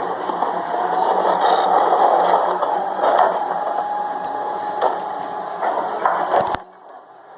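Freightliner M2 rear-load garbage truck with a Heil body, running with a steady whine that rises slightly and then holds, and several clanks and knocks. The sound cuts off suddenly near the end.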